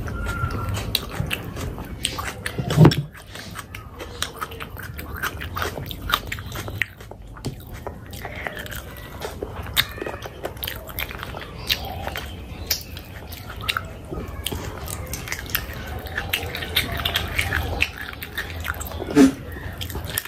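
Close-miked chewing and biting of food, with many small wet mouth clicks. Two brief louder sounds stand out, about three seconds in and near the end.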